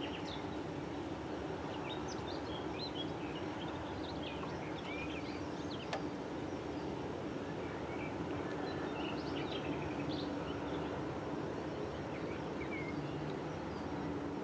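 Birds chirping over a steady low hum and rumble, with a single sharp click about six seconds in.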